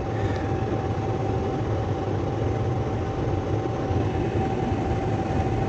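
Gas furnace running: a steady motor-and-air drone with a low hum and a thin, steady whine.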